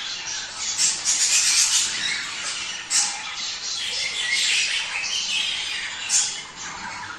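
Budgerigars chattering and warbling continuously, with sharp squawks about 1, 3 and 6 seconds in. This is budgie mating-season chatter of the kind played to stimulate breeding.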